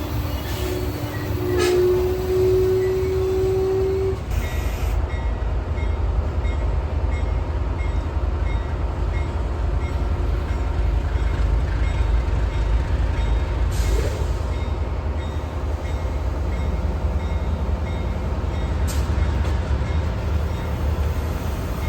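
Train passing close by with a steady low rumble of engines and wheels. Its horn sounds one held note early on, lasting about two and a half seconds.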